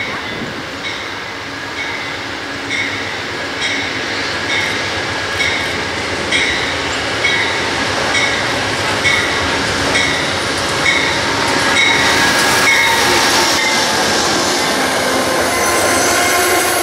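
A railroad grade-crossing bell dings steadily, a little faster than once a second, as an Amtrak passenger train approaches. After about twelve seconds the train's running noise grows louder and covers the bell, with steady ringing tones as the passenger cars roll past.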